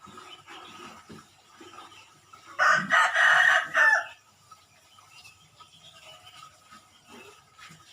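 A rooster crows once, a loud call of about a second and a half starting about two and a half seconds in, over faint chirping of small birds.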